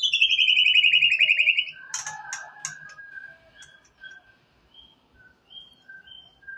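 White-rumped shama (murai batu) singing: a loud, rapid trill that slides down in pitch for nearly two seconds, then softer sharp clicks and short whistled notes.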